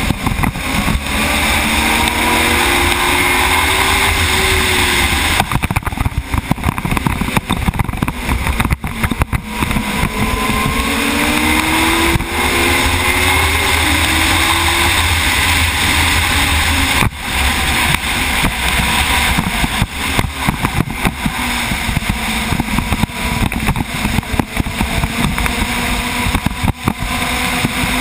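Race motorcycle engine at full speed, heard from a camera mounted on the bike, with heavy wind noise over it. Twice the engine note climbs in pitch as the bike accelerates through the gears, the second time about ten seconds in.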